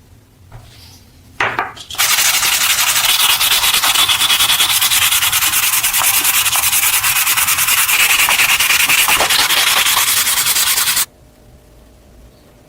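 Power sander running against a surface for about nine seconds, starting sharply after a short scrape and cutting off suddenly; an even, rapidly fluttering abrasive noise.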